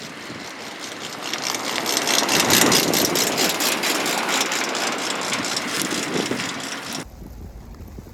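A vehicle passing on a snowy road: a hiss of tyres with a rapid fine clicking swells to a peak and then fades. It cuts off abruptly about 7 seconds in, leaving a low rumble.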